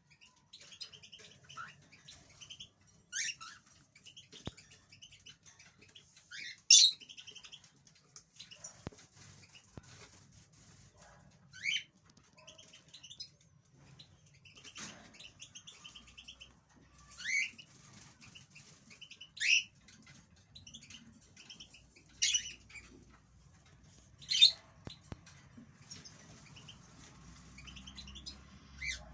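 Caged European goldfinches calling: short, sharp notes every few seconds with soft rapid twittering between them, and some wing fluttering.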